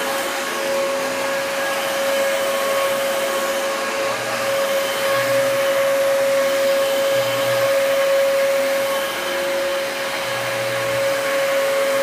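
Dyson DC33 upright vacuum cleaner running steadily, a constant motor whine over the rush of air.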